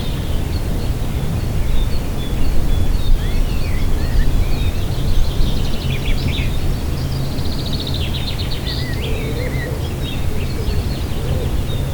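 Songbirds chirping and calling, with a fast trill about seven to nine seconds in, over a loud, steady low rumble.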